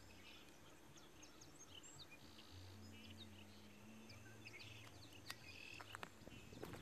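Near-quiet open air with faint small birds giving scattered high chirps and a few short buzzy trills. A few soft footsteps through dry grass come near the end.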